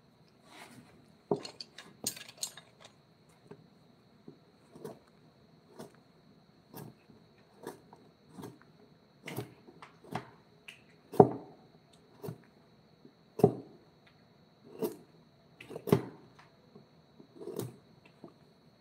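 Sharp knocks of a hand tool on wood, roughly one a second and uneven in strength, with a faint steady high whine underneath.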